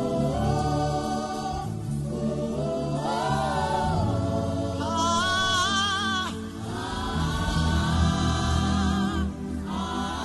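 A man humming a slow, wordless gospel melody, gliding between long held notes with vibrato, over held low chords.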